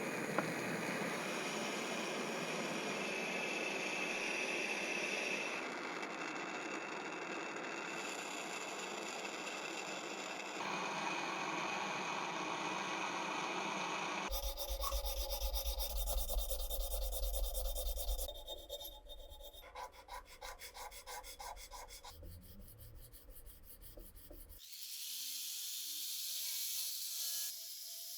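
Steady rubbing and scraping for about the first half. Then comes a different sound with a low hum and fast, even ticking, and near the end rising tones.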